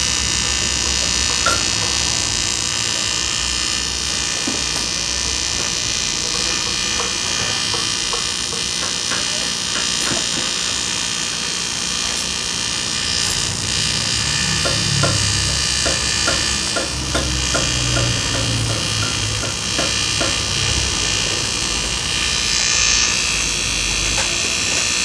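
A power tool's small high-speed motor running steadily with a high whine, with light ticking and some low rumbling partway through.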